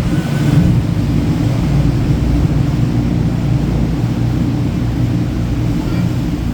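Tour boat's motor running steadily, heard from on board as a continuous low rumble.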